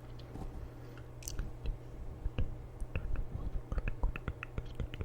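Close-miked ASMR trigger sounds: soft, irregular clicks and crackles, growing busier from about two seconds in, over a steady low hum.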